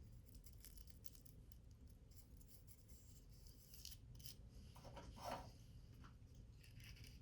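Faint, irregular scraping and rustling of paper or thin card being worked by hand, in short strokes, with a slightly louder rub about five seconds in.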